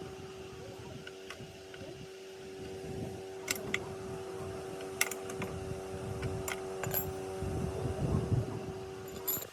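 A steady machine hum under an uneven low rumble, with a few short, sharp clicks partway through.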